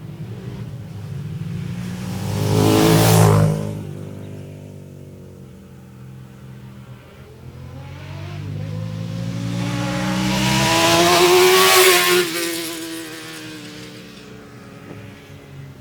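Two racing motorcycles passing at speed on a road circuit. One goes by quickly about three seconds in; a second is heard approaching for several seconds, its engine pitch rising, and passes about twelve seconds in before fading away.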